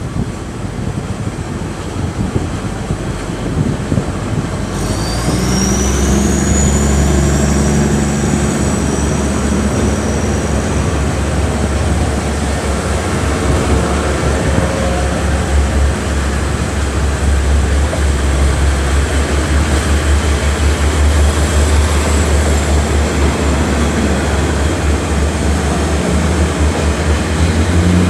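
Taiwan Railways DR2800 diesel multiple unit running, with a deep steady engine drone. About five seconds in, the drone grows louder and a high whine rises in pitch, then levels off and holds steady.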